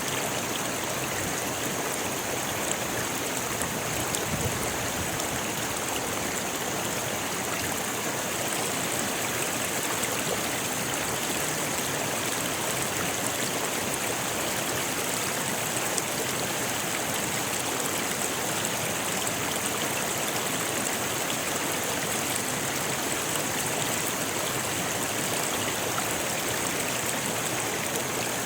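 Rocky river flowing over stones: a steady, even rush of water without breaks.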